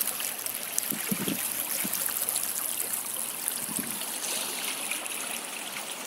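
Stream water trickling and babbling over stones, a steady splashy rush.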